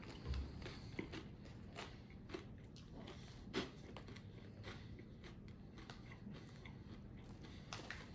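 Popcorn being chewed with the mouth closed: faint crunching with a few louder crunches scattered through.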